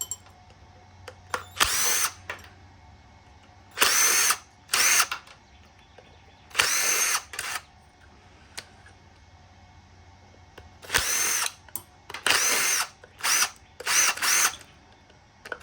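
Power drill fitted with a bit, run in short trigger bursts: about nine spins of half a second to a second, each winding up to a high whine, with pauses between.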